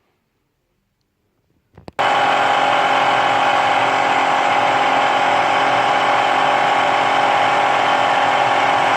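Metal-cutting machine tool, most likely a small lathe on a variable-frequency drive, running and taking a cut: a loud steady whine with a strong even tone. It starts abruptly about two seconds in, after near silence.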